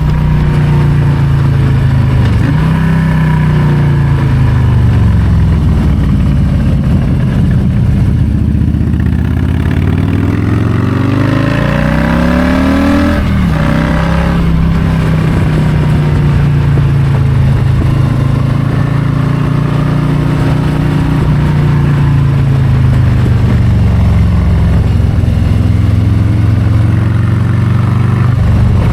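Harley-Davidson Low Rider ST's Milwaukee-Eight 117 V-twin riding under way, its pitch rising and falling with the throttle. About ten seconds in the revs climb steadily, drop sharply at about thirteen seconds, then settle into a steadier run that slowly eases off.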